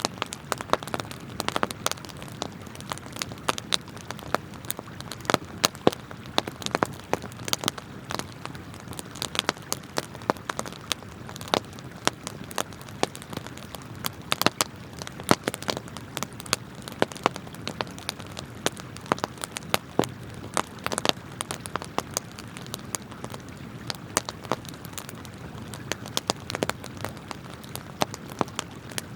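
Wood campfire crackling and popping in many sharp, irregular snaps, over the steady rush of flowing river water.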